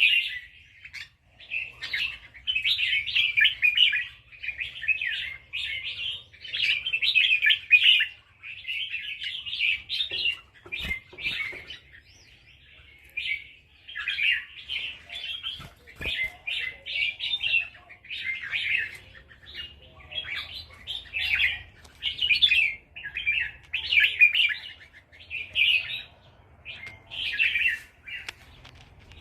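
Red-whiskered bulbul singing a run of short warbled phrases, about one a second, with a brief pause about twelve seconds in.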